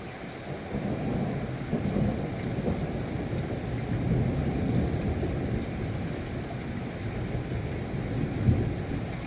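Thunder rolling and rumbling over rain during a thunderstorm. The rumble swells about a second in and slowly eases, with a brief sharper clap near the end.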